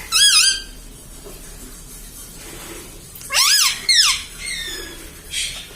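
Ring-necked parakeet calling: a short squeaky call at the start, then two loud rising-and-falling calls about three seconds in, followed by a fainter call and a short rasp near the end.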